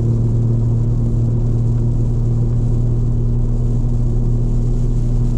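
Straight-piped BMW M4 Competition's twin-turbo inline-six exhaust droning at a steady cruise: a loud, constant low hum that holds one pitch, with no revving.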